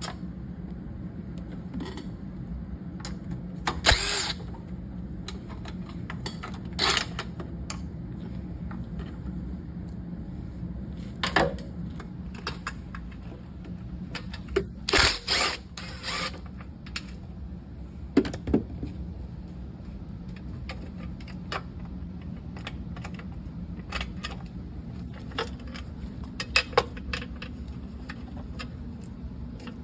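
Tools at work taking down a small engine: scattered clicks and clanks with a few short, louder bursts of tool noise, over a steady low hum.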